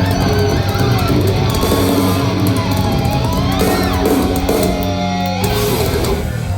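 Live thrash metal band playing loudly with distorted electric guitars, bass and drums. About five and a half seconds in, the drums and cymbals drop out while low held guitar notes ring on.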